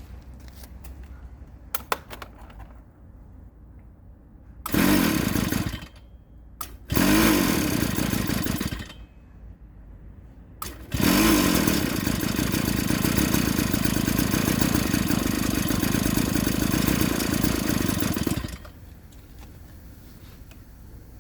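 49cc two-stroke pocket bike engine starting up: it runs for about a second, then for about two seconds, and each time cuts out. On the third start it runs steadily for about seven seconds before stopping.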